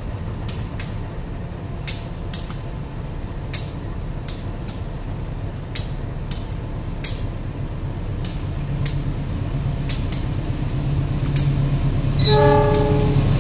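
A train rolling by, its wheels clacking over the rail joints in regular pairs. A low hum from a train's engine grows louder from about two-thirds in, and a short horn-like tone sounds near the end.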